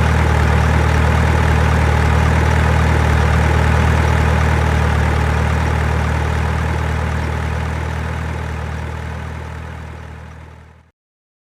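Truck engine idling steadily with a deep, even hum, fading out over the last few seconds and stopping about eleven seconds in.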